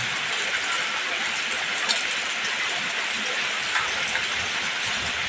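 Steady rain falling, an even hiss of heavy rainfall with a few sharper drop ticks.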